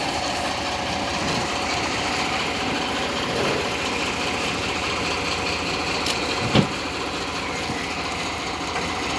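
Miniature railway locomotive's diesel engine idling steadily at a standstill, with a single sharp knock about six and a half seconds in.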